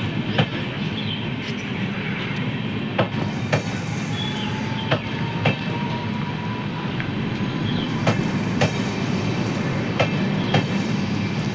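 LHB passenger coaches rolling past on the track, a steady rumble with sharp wheel clicks coming in pairs every couple of seconds as bogies cross a rail joint. A faint thin wheel squeal sounds for a few seconds in the middle.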